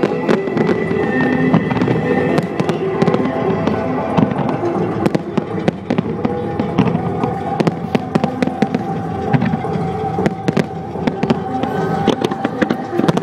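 Fireworks display: many bangs and crackles of bursting shells in quick succession, over music with long held notes.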